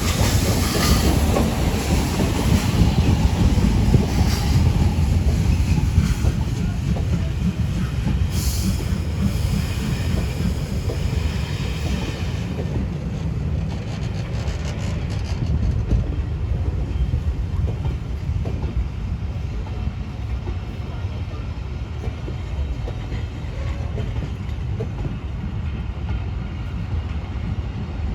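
A train running along the line, a heavy low rumble with brighter rail noise that dies away about halfway through, leaving the rumble easing off.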